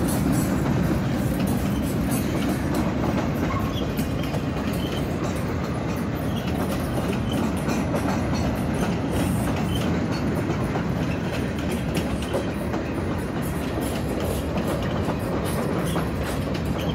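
Freight train boxcars and covered hopper cars rolling past close by: a steady rumble of steel wheels on the rails with a continuous clickety-clack of wheels over the rail joints.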